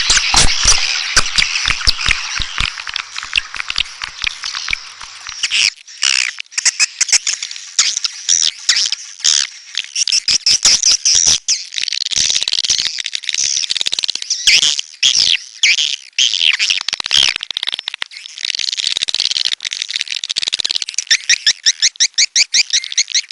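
Swiftlet calls: a dense chatter of high chirps and twittering trills, with sharp clicks mixed in during the first few seconds. Near the end it becomes a fast, even run of repeated chirps, about five a second. This is the kind of call track played to lure swiftlets to a nesting house.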